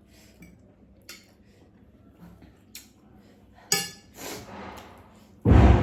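Metal utensils clinking against a bowl, a few light taps and one sharp ringing clink. Near the end comes a loud sudden rush of breath.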